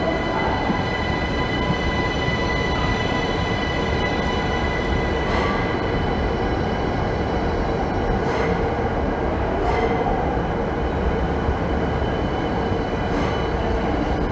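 Electric multiple unit rolling slowly past along the platform: a steady rumble with a high, even electric whine, and a few faint clicks.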